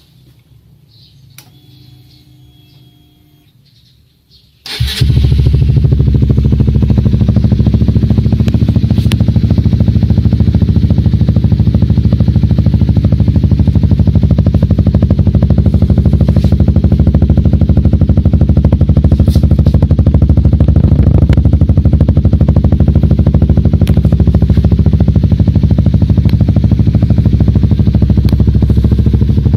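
Honda CBR150R's single-cylinder engine running through a Yoshimura aftermarket exhaust: after a quiet start it comes in suddenly about four and a half seconds in, then runs loud and steady, with no revving.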